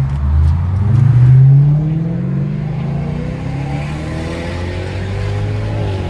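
Lexus GS430's 4.3-litre V8, catalytic converters removed, accelerating at full throttle. The engine note climbs steadily through the gear, then drops with an upshift near the end.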